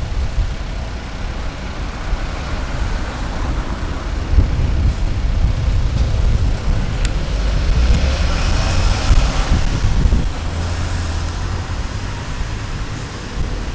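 Fire truck's diesel engine running as it pulls away, over steady city traffic noise. The sound grows louder about eight seconds in and eases off again about two seconds later.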